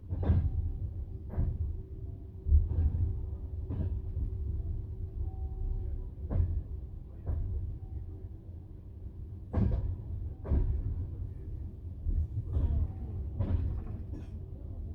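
Passenger railway carriage running with a steady low rumble, its wheels clacking over rail joints in sharp knocks, several in pairs about a second apart.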